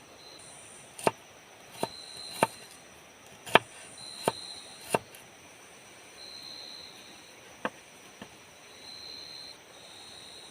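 A series of about eight sharp, irregularly spaced knocks or chops, six of them in the first five seconds and two near the end, the loudest about three and a half seconds in, typical of wood being cut or struck during shelter building. Insects buzz steadily in the background, with a high call that comes and goes about once a second.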